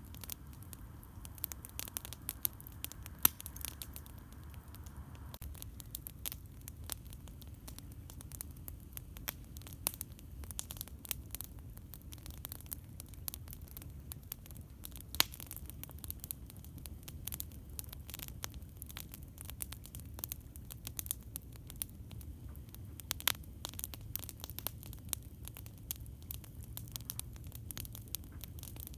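Wood campfire crackling: frequent sharp snaps and pops at irregular intervals, the loudest about three seconds in, over a steady low rumble.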